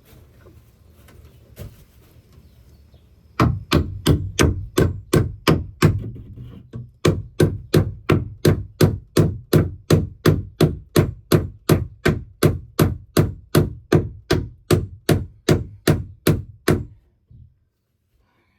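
Hand hammer striking wood in a steady series of about three blows a second, with a brief pause partway through, as a wooden roost board is driven into place.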